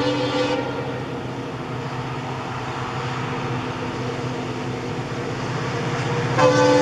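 Train horn blast cutting off about half a second in, then the steady rumble of a passing train. The horn sounds again near the end.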